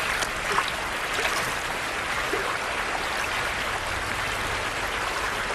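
Creek water running steadily, with a few faint brief splashes.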